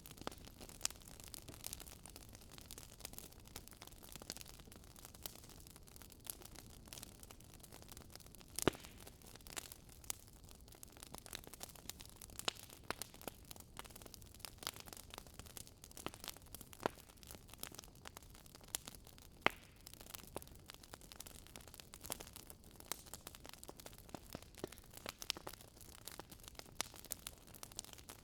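Wood fire crackling in a fireplace: irregular sharp pops and snaps over a soft steady hiss, with a few louder pops among them.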